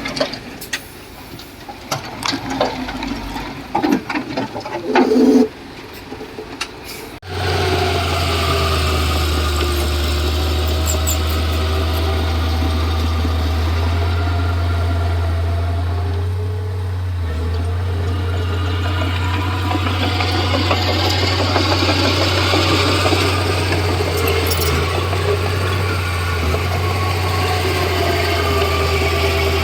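Scattered knocks and clicks, then about seven seconds in a Komatsu D31P bulldozer's diesel engine sets in abruptly and runs steadily with a low hum.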